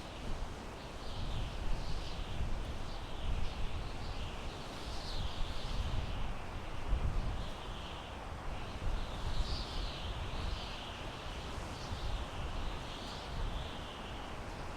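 Wind through pine trees, with a gusty low rumble and a steady rustling hiss. Over it, high chirping calls repeat roughly once a second.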